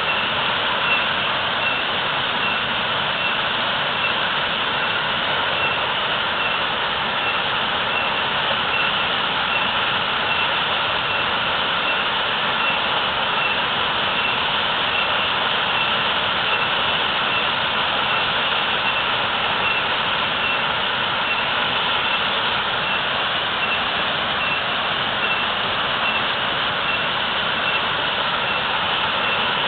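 Waterfall roar: a heavy, steady rush of falling water with no breaks or changes.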